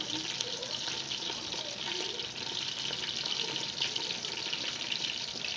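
Cooking oil sizzling and crackling steadily in a pot on the stove, heating before the tomato goes in.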